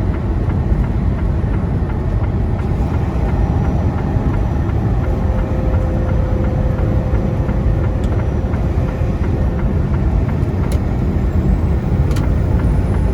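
Steady low rumble of a semi truck's engine and tyres heard inside the cab while cruising at highway speed. A faint steady hum joins in for a few seconds in the middle.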